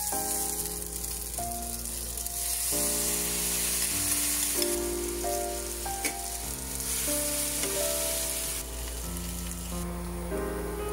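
Kimchi, rice and sliced sausage sizzling in a nonstick frying pan as they are stirred and turned with a slotted spatula; the sizzle eases near the end.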